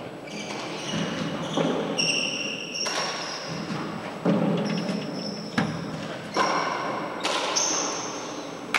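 A four-wall handball rally: a rubber handball smacks the walls and floor in a series of sharp impacts, while sneakers squeak in short bursts on the court floor.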